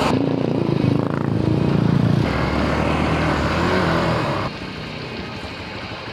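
Hero Xpulse 200 4V motorcycle's single-cylinder engine running as the bike slows down, its note shifting lower. It turns much quieter about four and a half seconds in.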